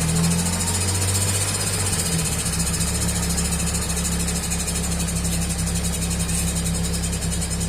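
An engine running steadily, a constant low hum with a high hiss above it.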